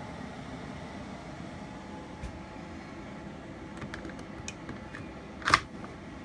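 RV rooftop air conditioner running with a steady fan noise. A few short clicks come over it, and one much louder click comes about five and a half seconds in.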